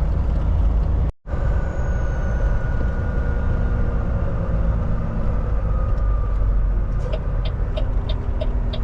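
Steady low drone of a semi truck's diesel engine and road noise heard from inside the cab, cut off for an instant just after a second in. From about seven seconds in, the turn signal ticks evenly, about twice a second.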